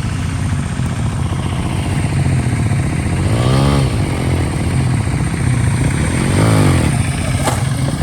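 Diesel engine of a Hinota hand tractor running steadily under way, twice briefly revved up and back down a few seconds apart.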